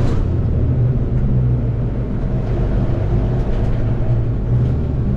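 Seat Ibiza FR's tuned 2.0 common-rail turbodiesel engine running at steady, moderate revs: an even low drone without revving.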